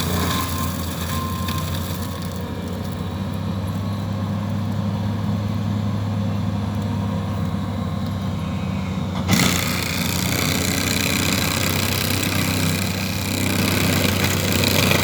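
Forestry mulcher's engine running steadily. About nine seconds in, a loud grinding, splintering noise sets in as the mulching head chews into wood, and it keeps going over the engine.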